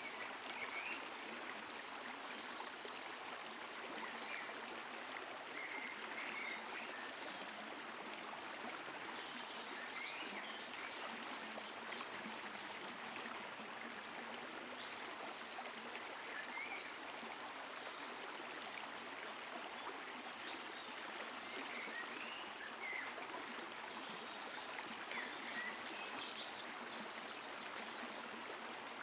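Forest stream flowing steadily, with birds singing over it: scattered short high chirps throughout and a fast high trill of rapidly repeated notes, once about ten seconds in and again about 25 seconds in.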